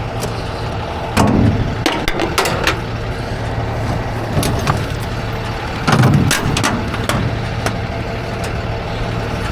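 Tow truck engine idling steadily, with several sharp metallic clanks and clicks from handling the tie-down gear.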